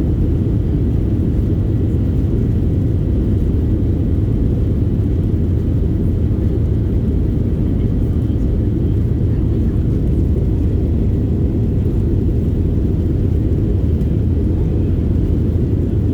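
Aircraft engines and rushing air during takeoff: a steady, loud low drone that holds even throughout.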